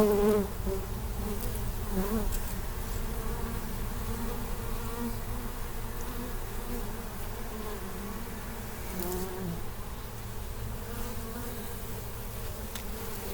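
Honeybees buzzing steadily around their opened hive, a colony disturbed during a hive cutout, the hum wavering slightly in pitch.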